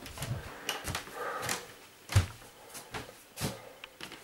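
Rustling and handling noises as sweatshirts are stuffed into a plastic bag, with scattered knocks and a dull thump about two seconds in.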